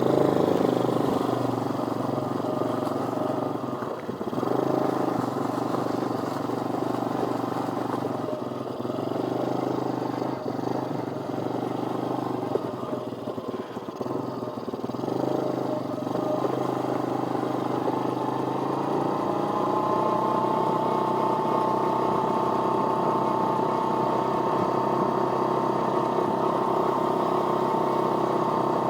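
Pit bike engine running just after starting, its revs rising and falling unevenly, then holding a steady pitch for roughly the last third.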